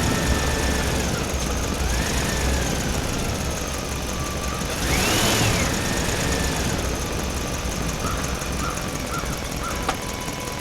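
A small motor running steadily with a low rumble. A whine rises and falls several times over it, there is a brief rush of noise about five seconds in, and a few short high pips come near the end.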